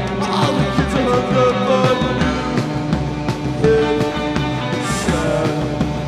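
Live rock band playing a garage-psych rock song: electric guitar, bass and drums keeping a steady beat.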